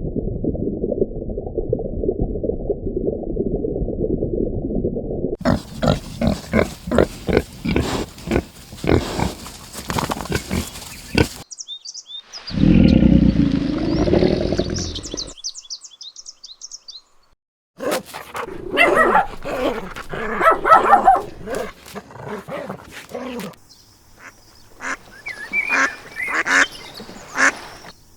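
A run of different animal calls, one short clip after another with abrupt cuts between them: a low, muffled stretch, then a fast series of rapid calls, a deep loud call, a brief pause, and further calls.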